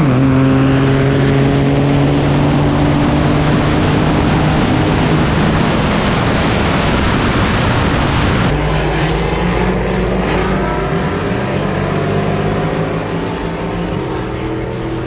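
Truck engine pulling hard under full acceleration, with a sudden drop in pitch at a gear shift right at the start, then a rising rush of wind and road noise. About eight seconds in the sound changes abruptly to another stretch of engine running, with its pitch sliding through a shift.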